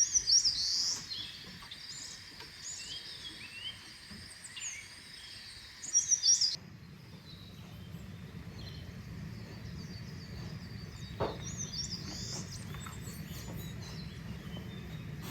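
Forest birds chirping and calling over a steady high insect drone. About six and a half seconds in, the sound changes abruptly to fainter bird calls over a low steady rumble, with a brief click near the eleventh second.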